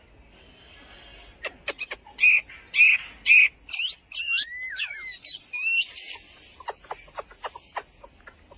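Chinese hwamei singing: a burst of loud repeated notes that turns into varied whistled phrases with swooping glides, then a quick run of sharp clicking notes near the end.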